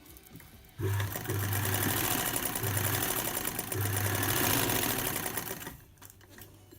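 Vintage cast-iron Singer sewing machine running and stitching through four layers of lightweight denim without strain, with a rapid needle clatter over a low motor hum. It starts about a second in and stops about five seconds later.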